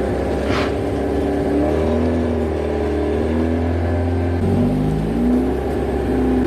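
Honda Civic's D15B4 four-cylinder engine running and being revved as the car is manoeuvred, its pitch rising and falling several times, with a short hiss about half a second in. It runs rough on only three cylinders: one cylinder is not firing.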